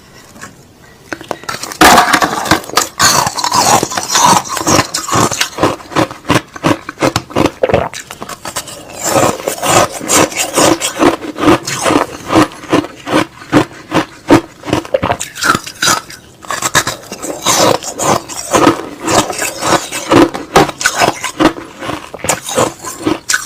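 Close-miked crunching and chewing of crushed ice slush, a dense run of crisp crunches that starts about two seconds in and keeps going in a steady chewing rhythm.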